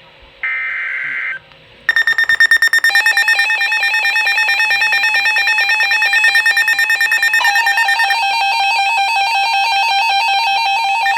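A burst of SAME digital header data, a one-second screech of data tones, opens an incoming weather alert. Then a weather radio receiver's alert alarm sounds: a loud, rapidly pulsing electronic beep that drops to a lower pitch about seven seconds in. It signals a severe thunderstorm warning.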